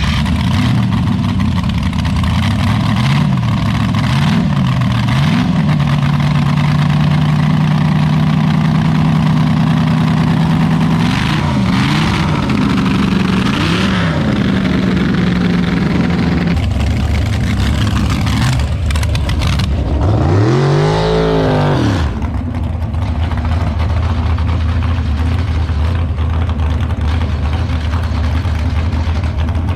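Drag racing engine idling with a steady note, blipped a few times early on and again in the middle, with one bigger rev that rises and falls about twenty seconds in.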